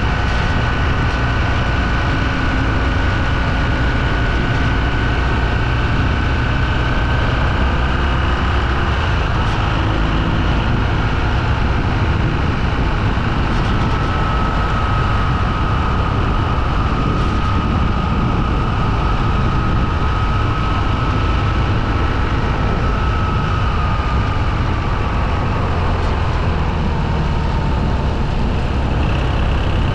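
Motorcycle engine running steadily on the move, with a constant rush of noise over it and a thin high whine that slowly sinks in pitch over the second half.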